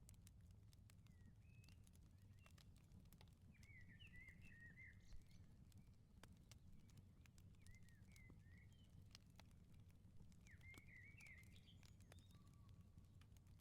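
Faint outdoor ambience: small birds chirping in short warbling phrases about four seconds in, again near eight seconds and around eleven seconds, over sparse faint crackles of a wood fire and a low steady rumble.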